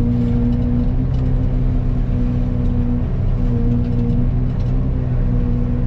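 Excavator diesel engine running steadily under load, driving a Fecon forestry mulcher head. It makes a constant low drone with a hum whose pitch shifts slightly a few times.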